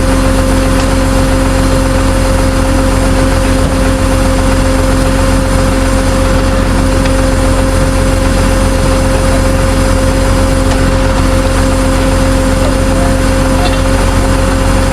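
Tow truck's engine running steadily, with a constant droning hum that holds one pitch throughout.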